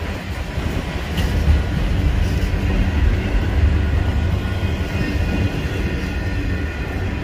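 Freight train of autorack cars rolling past at close range: a steady low rumble of steel wheels on the rails.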